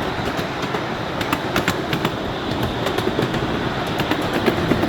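Ride-on miniature railway train rolling along its track: a steady rumble with scattered sharp clicks of the wheels over the rails.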